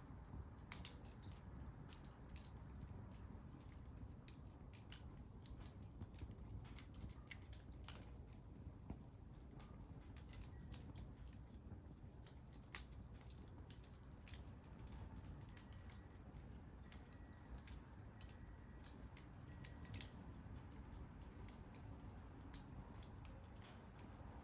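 Wood fire crackling faintly: irregular sharp pops and snaps scattered over a steady low hum from the burning fire.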